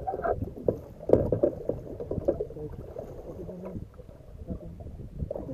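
Water splashing and lapping around a kayak, with irregular knocks and sloshes and one louder splash about a second in.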